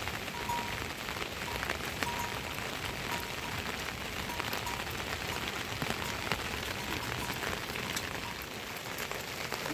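Steady rainfall, with many individual drops striking close by as sharp ticks over the even hiss of the rain.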